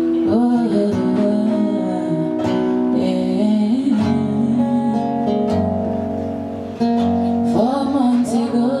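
Acoustic guitar playing held chords while a voice sings sliding, wavering runs with no clear words. The music dips briefly about seven seconds in, then picks up again.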